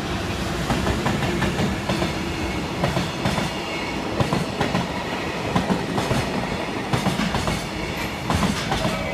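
Container freight train hauled by an EF210 electric locomotive passing through without stopping: a continuous rumble of steel wheels on rail, with the irregular click-clack of the wagons' wheels over rail joints.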